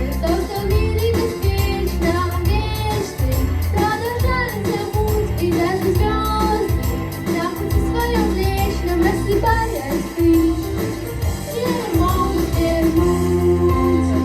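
A girl singing a pop song over a backing track with a steady bass line.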